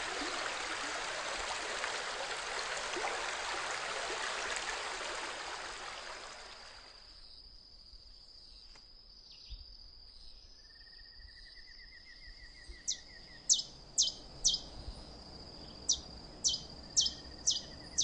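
A steady rushing noise fades out about seven seconds in, leaving a thin, high insect drone with short buzzy trills. In the last five seconds a bird calls over and over in sharp, high, down-slurred notes, about two a second.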